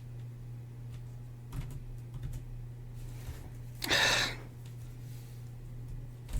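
A few scattered computer keyboard keystrokes over a steady low hum, with one short, louder rushing noise about four seconds in.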